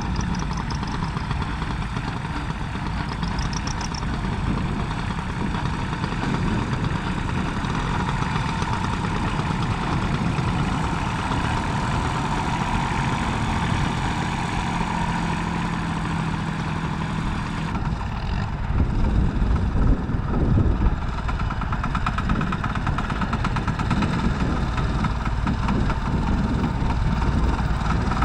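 Tractor engines running steadily. About two-thirds of the way in, the sound changes and grows louder and rougher.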